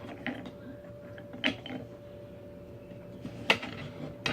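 Small metal outboard-carburetor parts clicking and clinking as they are handled on a bench, a few separate sharp clicks with the loudest about three and a half seconds in, over a steady faint hum.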